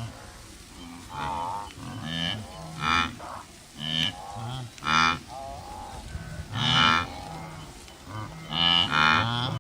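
Farm livestock calling over and over, a run of drawn-out, wavering calls about one a second that often overlap.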